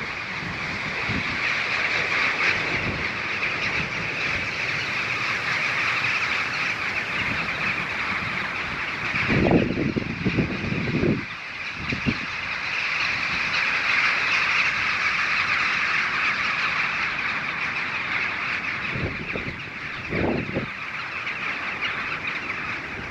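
Birds calling steadily in the background, with a few short low blowing sounds as a Klymit Static V sleeping pad is inflated.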